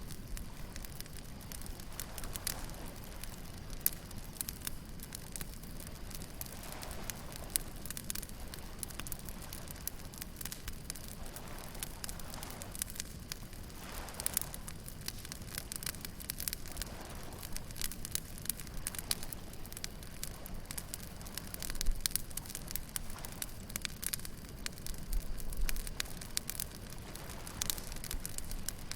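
Wood bonfire crackling and popping in many irregular sharp snaps over a steady low rumble of surf, with soft swells of breaking waves every few seconds.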